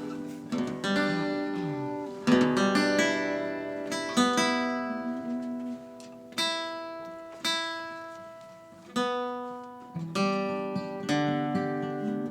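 Acoustic guitar strumming single chords, each left to ring and fade before the next, about one every one to two seconds.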